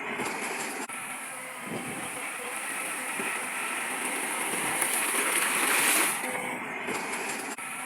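Steady noise of heavy earthmoving machinery running, with the same stretch of sound repeating about every seven seconds.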